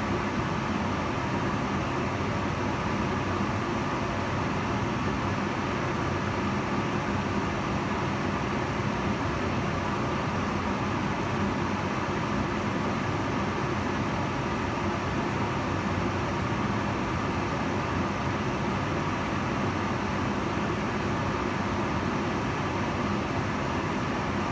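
Kitchen range hood fan running steadily: an even rush of air with a faint hum, unchanging throughout.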